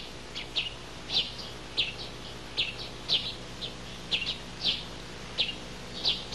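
Small birds chirping in short, high chirps, two or three a second and unevenly spaced.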